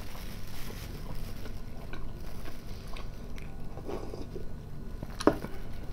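A person chewing food with small scattered mouth clicks, then sipping tea from a glass mug about four seconds in. One sharper click comes near the end.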